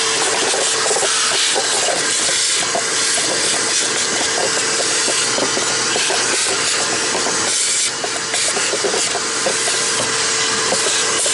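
Vacuum cleaner running with a steady hiss and motor whine, sucking debris out of the car's air filter housing with small crackles; it dips briefly about eight seconds in.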